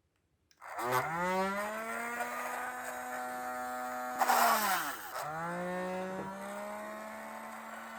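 Small electric motor of a homemade mini drill spinning up to a steady whine. About four seconds in, a short harsh grinding burst comes as it is loaded, and the pitch sags almost to a stop. It then spins back up and runs steadily.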